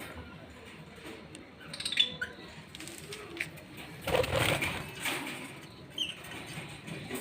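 Pair of lovebirds moving about: several short bursts of rustling or wing flapping, the longest a little past the middle, with a few brief high chirps.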